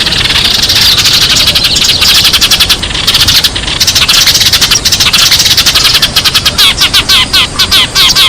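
Sparrows chirping in a loud, dense chatter of rapid short calls. Near the end the chirps become more separate, several a second. This is a sparrow call recording of the kind played as a lure for trapping.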